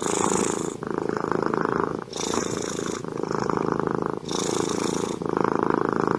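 Cat purring close up: a fast, steady rattle that swells and eases in cycles of about a second.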